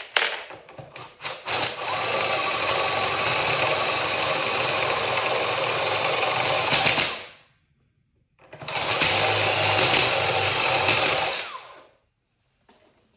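Electric power drill running under load, drilling into the mini drag bike's front fork for the brake mount: one long run of about six seconds, a short pause, then a second run of about three seconds, each winding down as the trigger is released.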